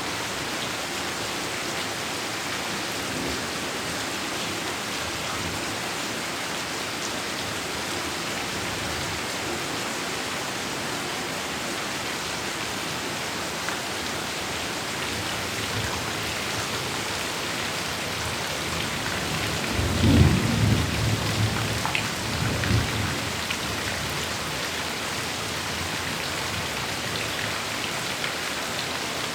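Heavy rain falling steadily, with a loud clap of thunder about two-thirds of the way in that rumbles low for a few seconds before fading back under the rain.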